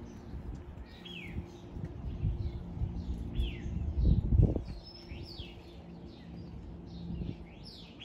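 Several small birds chirping, short down-sliding chirps several times a second that overlap one another. Beneath them runs a low rumble with a steady hum, which swells into a louder low rumble about four seconds in.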